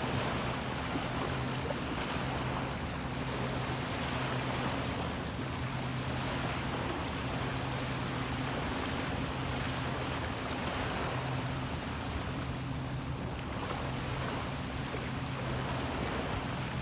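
Bay water washing and lapping at the shore, with a steady low motor hum underneath.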